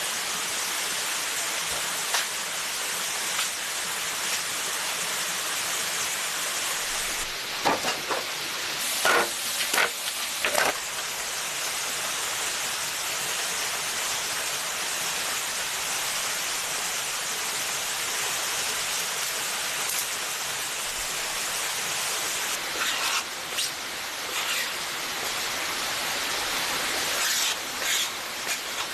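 Steady rushing of a forest creek, with a cluster of sharp knocks and clatters about a third of the way in and more near the end.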